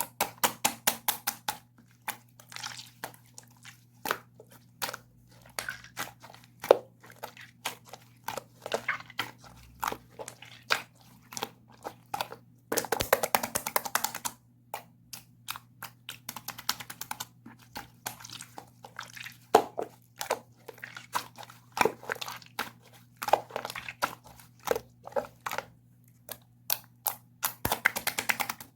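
Clear slime being squished and poked by hand, making sticky clicks and pops in quick runs, with a longer stretch of dense crackling a little before halfway. A faint steady hum sits underneath.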